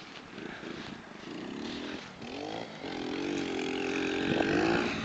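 Pit bike engine revving up, its pitch rising twice in quick succession, then running at a fairly steady high pitch with a brief dip near the end.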